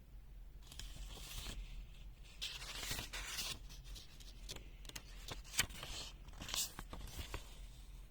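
Handling noise: several stretches of scraping and rustling mixed with a dozen or so sharp clicks, the loudest click a little past the middle.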